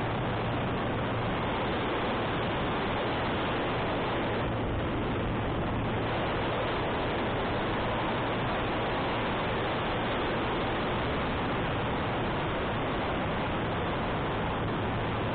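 Steady rush of wind noise on the microphone of a motorcycle riding uphill, with the engine's low steady hum underneath; the hum fades for several seconds in the middle and comes back near the end.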